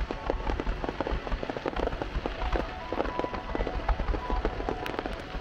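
Aerial fireworks crackling: a dense, irregular run of sharp pops and crackles, several a second, over a low rumble.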